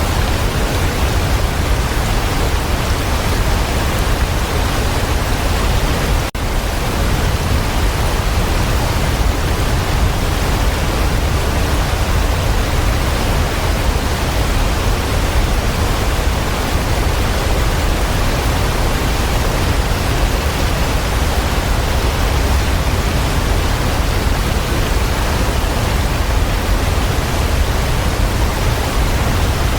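Waterfall: a steady, full rush of falling water, heavy in the low end, with a momentary dip in level about six seconds in.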